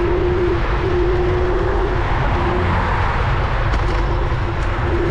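Steady traffic and road noise during a bicycle ride through city streets, with a steady hum that breaks off and returns.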